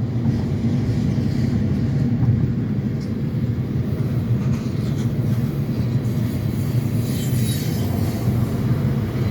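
Union Pacific grain train of covered hopper cars rolling past: a steady low rumble of wheels on the rails, with a brief rise of higher hiss about seven seconds in.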